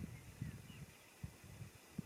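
Wind buffeting the microphone in irregular low gusts, with a few faint, short bird chirps early on.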